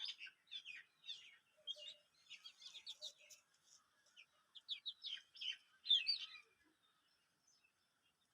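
Chicken chicks peeping: a quick run of short, high, falling cheeps that stops about six and a half seconds in.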